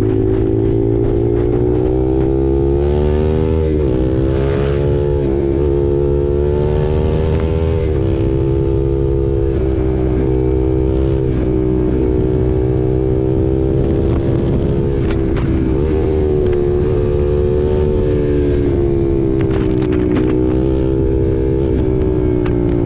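Single-cylinder engine of a KTM RC 390 with an aftermarket SC Project exhaust, under way. Its pitch climbs and drops back several times as the rider accelerates and changes gear.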